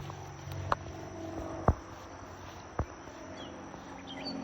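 Four sharp clicks, roughly a second apart, over a faint steady outdoor background with a thin high insect-like drone.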